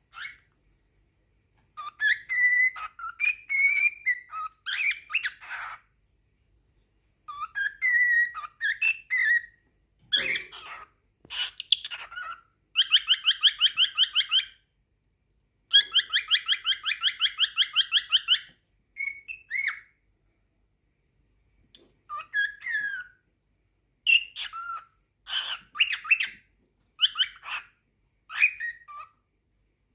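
Cockatiel singing: bursts of chirps and whistled glides separated by short pauses, with two longer rapid runs of repeated notes near the middle.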